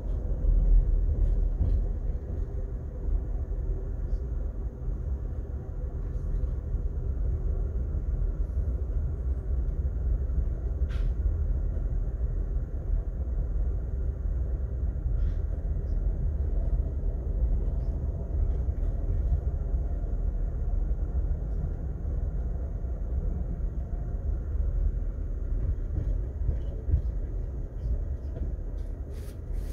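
Amtrak Sunset Limited passenger train running at speed, heard from inside the car: a steady low rumble of wheels on rail, with a few faint clicks.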